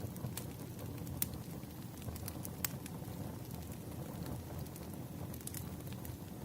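Wood fire burning: a steady low rumble of flames with irregular sharp crackles and pops from the logs.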